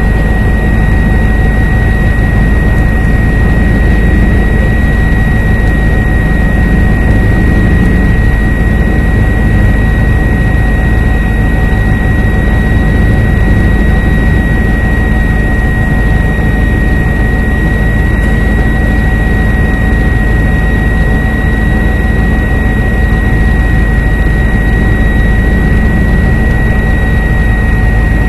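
Helicopter in flight heard from aboard: a loud, steady drone of rotor and engine with a constant high whine over it.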